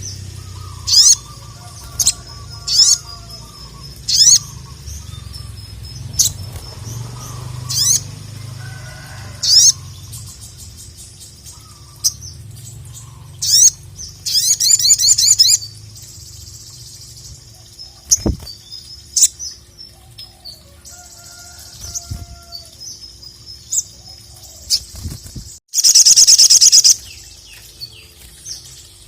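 A sogon (sogok ontong), a small nectar-feeding sunbird, calling in loud, sharp, high chirps that drop in pitch, one every second or two. It breaks into a fast trill about halfway through and a longer, louder rapid trill near the end.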